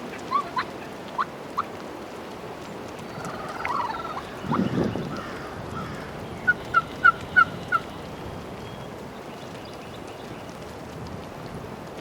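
Wild turkey gobbling once, about four seconds in. Before it come a few short, sharp notes, and about seven seconds in a run of five evenly spaced yelps.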